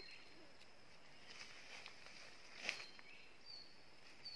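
Short, high, slightly falling whistled bird notes, one just after the start and a few more near the end, over a faint steady high drone. A single sharp rustle-crackle in the undergrowth comes about two and a half seconds in.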